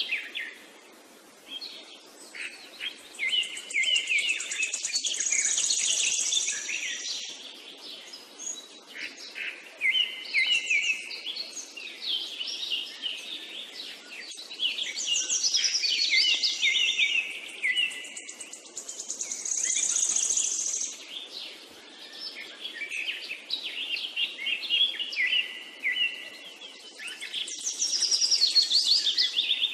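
Birds chirping and singing, trilling phrases that come and go every few seconds.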